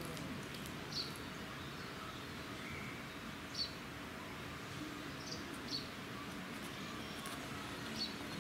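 Short, high bird chirps, about five in all, spaced a second or two apart, over steady outdoor background noise.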